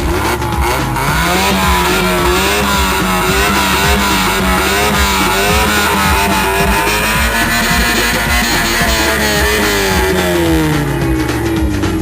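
Big truck engine running hard: its pitch climbs about a second in, holds high, then falls away near the end, with music playing underneath.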